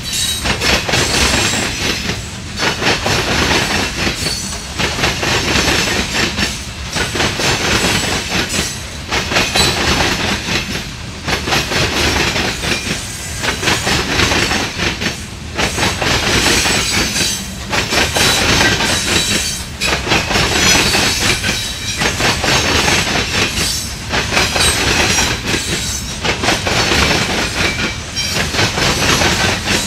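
Empty coal hopper cars rolling past, their steel wheels clattering over the rail joints and crossing diamonds in a steady clickety-clack with a bright metallic hiss. The sound swells and dips about every two seconds as each car goes by.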